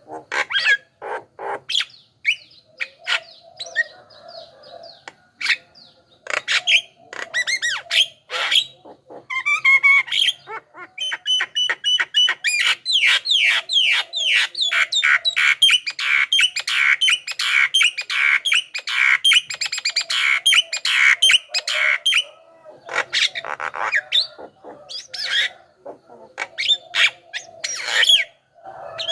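Javan myna (jalak kebo) calling: a varied string of harsh squawks, whistles and clicks, breaking into a dense, rapid chatter through the middle.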